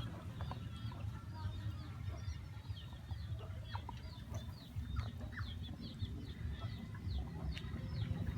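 Birds chirping over and over in short falling notes, several a second, over a steady low rumble.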